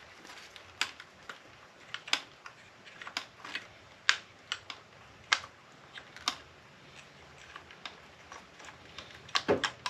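Irregular sharp clicks and snaps, about one or two a second, of hand tools and plastic and metal parts being worked while copper wire is pried out of a battery backup unit. A heavier knock comes near the end.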